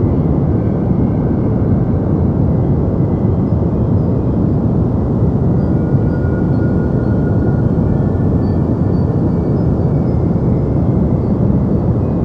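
Steady deep noise for sleep: an unchanging low rush, heavy in the bass and dull at the top, with faint thin high tones drifting in and out.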